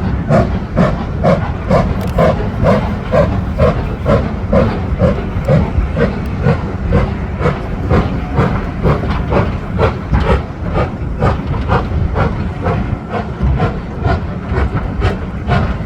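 Steam locomotive working, its exhaust beats coming evenly at about three a second with a steady hiss of steam.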